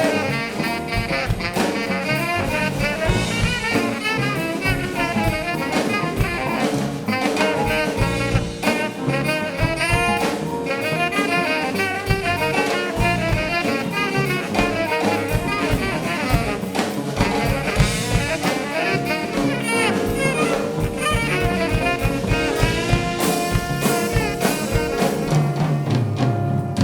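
Live jazz band playing, with horns (saxophone and trumpet) carrying the melody over a drum kit.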